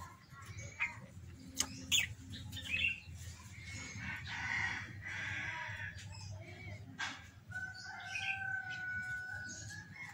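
Small birds chirping, with a few sharp clicks and a held whistling tone near the end, over a steady low hum.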